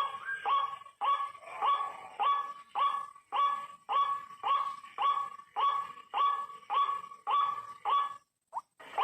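White-breasted waterhen's repeated 'ruak-ruak' call, short harsh notes about three a second in a steady run, stopping shortly before the end.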